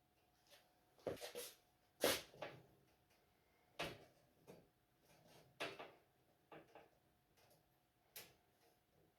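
A series of sharp, scattered knocks and clatters, about six over several seconds, as objects are handled and set down.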